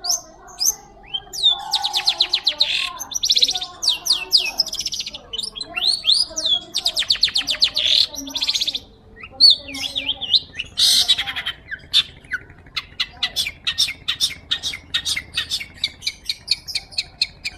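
Shrike (pentet) singing vigorously: a varied, non-stop string of rapid rattling trills, short whistled notes and sharp chips, ending in a fast run of ticking chips.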